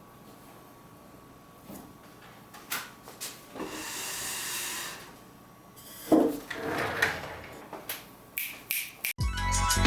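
Household tidying sounds: scattered knocks, clicks and rubbing as things are handled and put away, with a brief hiss-like rush in the middle. Music with a beat comes in near the end.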